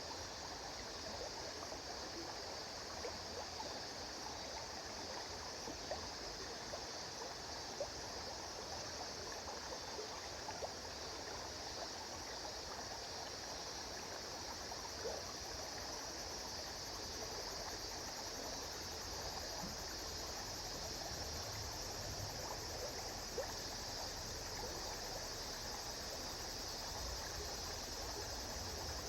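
River water flowing steadily, a continuous rushing wash with small scattered splashes.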